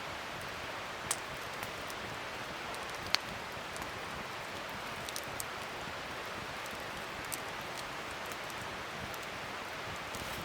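Wood fire burning: a steady crackling hiss with a few sharp pops, the loudest about three seconds in.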